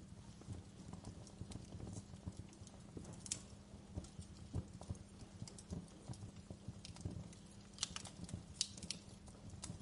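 Wood fire crackling: irregular small pops and snaps over a low rumble of burning, with a few sharper pops about three seconds in and again near eight and nine seconds.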